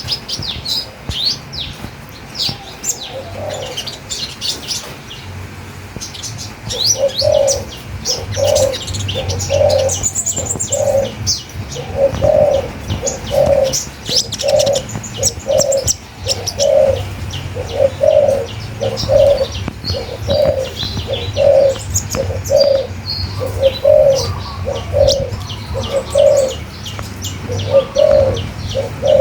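Birds chirping with many quick, high-pitched notes. From about seven seconds in, a low cooing call joins them, repeated evenly about three times every two seconds.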